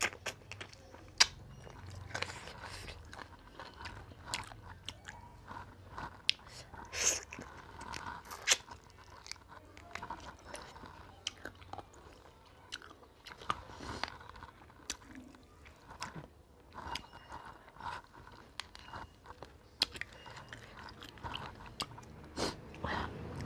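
A person chewing and biting mouthfuls of rice and greens eaten by hand, with many irregular sharp mouth clicks.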